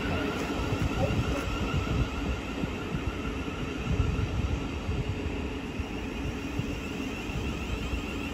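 Thameslink Class 700 electric multiple unit running at the platform: a steady low rumble with a faint high whine from its electrics.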